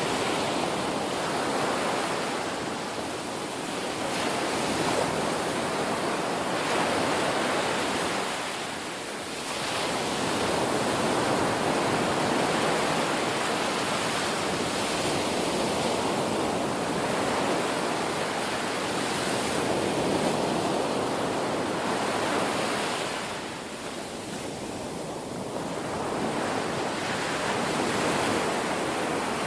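Ocean surf washing on a shore: a continuous hiss of breaking waves that swells and eases, with lulls about a third of the way in and again near the end.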